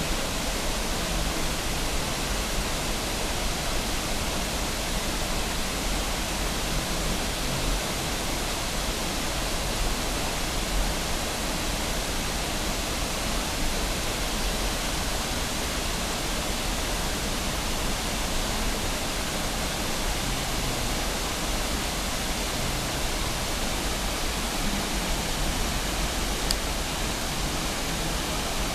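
Sgwd yr Eira waterfall: a steady, unbroken rush of falling water.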